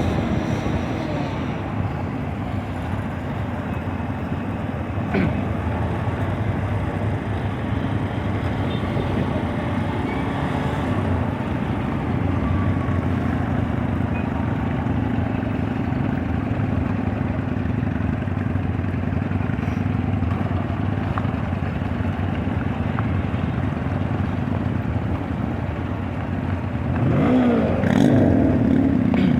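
Motor vehicle engine running steadily at speed, with a louder stretch near the end where the engine pitch rises and falls as it revs.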